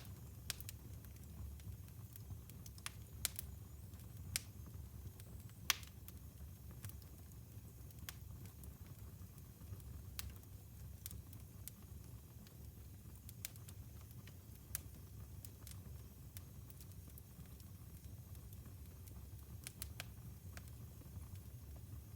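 Wood fire burning in a fireplace: scattered sharp crackles and pops over a low, steady rumble of the flames, with one louder pop about six seconds in.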